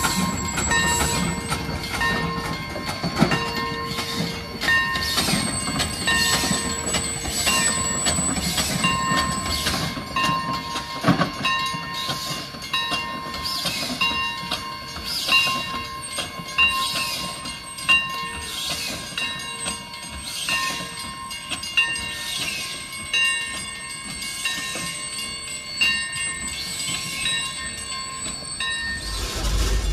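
A narrow-gauge train hauled by a Heisler geared steam locomotive rolls slowly through a road grade crossing while the crossing signal bell rings steadily throughout.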